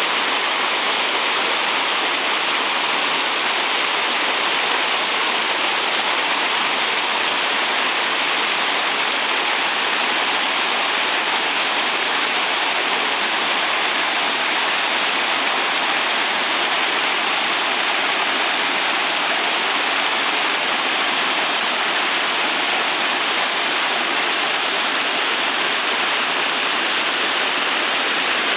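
Waterfall pouring into a mountain stream, a steady loud rush of falling water.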